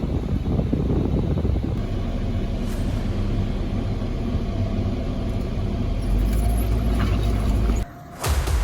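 A Jeep's engine running and rumbling as it is driven off-road, growing louder about six seconds in, then briefly cut off just before the end.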